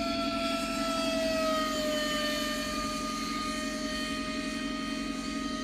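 Parrot Bebop quadcopter drone's propellers whining steadily, the pitch dipping slightly about a second and a half in.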